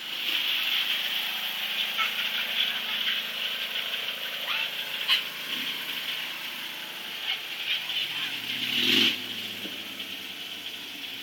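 A small riding lawn tractor's engine running steadily as it drives across a yard, with a brief louder sound about nine seconds in.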